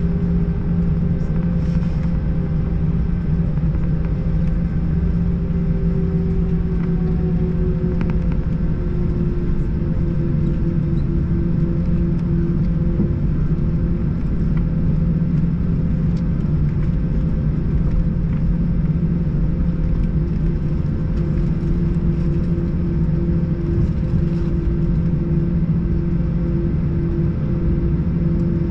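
Cabin noise inside a Swiss Airbus A321-111 with CFM56 engines: a steady engine drone and airflow rush with several constant hums. One hum drops slightly in pitch about eight to ten seconds in.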